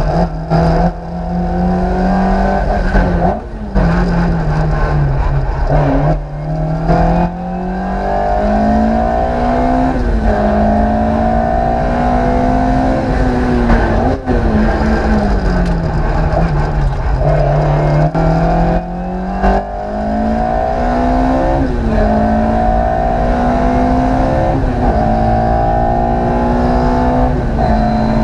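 Ford Escort Mk II's naturally aspirated 2-litre Cosworth four-cylinder engine under hard acceleration, heard from inside the cabin. The note climbs through each gear and drops sharply at the upshifts, with several brief lifts off the throttle.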